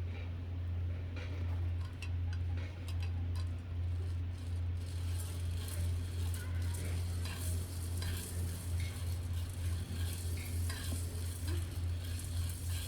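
Coffee beans roasting in a pan or roaster over a camp burner: a steady low hum, with the beans rattling and crackling in scattered ticks that grow busier partway through.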